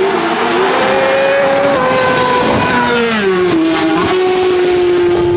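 Superbike racing motorcycle engine at high revs going past at race speed, its pitch dropping about three seconds in as it passes.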